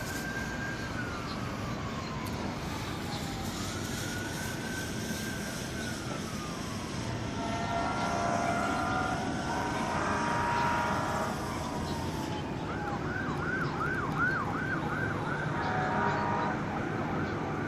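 Emergency vehicle siren: two slow rising-and-falling wails, then a few seconds of a steady horn-like blare, then a fast repeating yelp, over a steady background rush.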